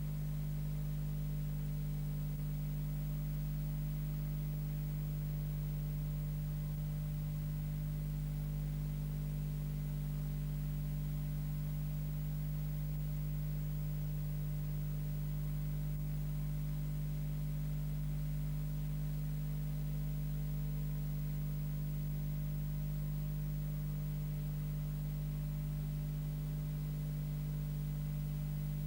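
A steady low electrical hum with a faint hiss over it, unchanging.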